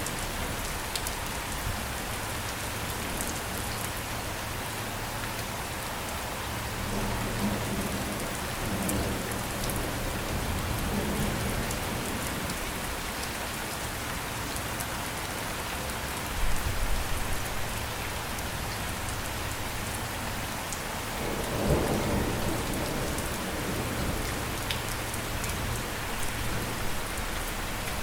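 Steady rain falling, with low rumbles of thunder swelling through it, the strongest about three-quarters of the way through.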